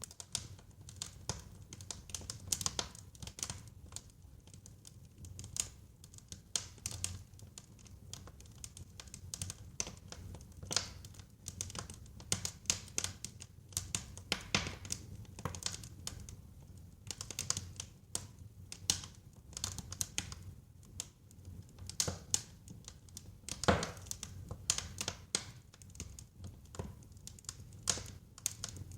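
Wood fire crackling, with irregular sharp crackles and pops over a low, steady rumble of burning. One pop about three-quarters of the way through is louder than the rest.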